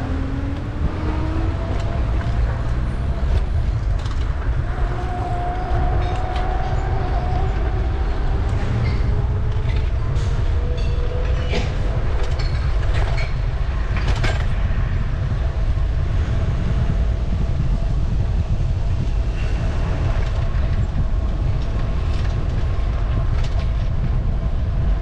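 Steady low rumble of wind and road noise while riding a bicycle through city streets, with passing traffic: a faint rising and falling whine early on and scattered light clicks and rattles.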